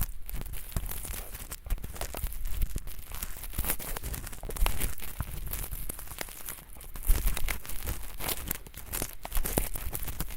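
Ear pick scraping at thin, flaky earwax in both ears, a dense run of irregular crackly scratching strokes.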